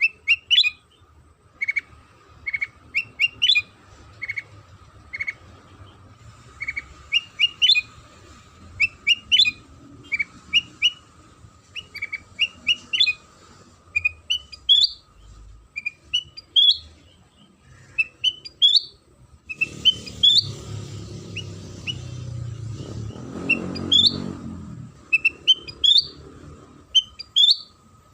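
Kutilang sutra bulbul song: short, sharp chirped whistles repeated about once or twice a second. A low rumble joins in for several seconds past the middle.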